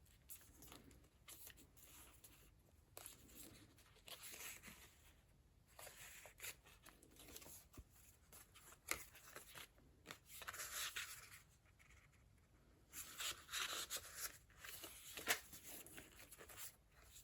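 Faint paper rustling as the pages and tucked-in ephemera of a handmade junk journal are handled and turned, coming in a few short bursts with light clicks and taps between them.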